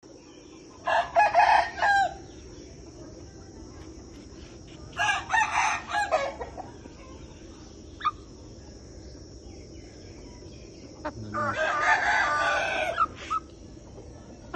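An Amra-cross Aseel rooster crowing three times, each crow a second or two long. A steady high insect drone runs underneath.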